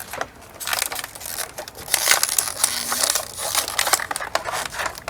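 Crackling and crinkling of craft materials being handled and worked into a paddle, a dense run of rapid clicks that is loudest in the middle.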